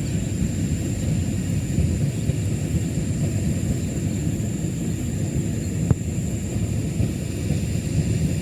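Steady low outdoor rumble with a thin, steady high tone over it, and a single sharp click about six seconds in.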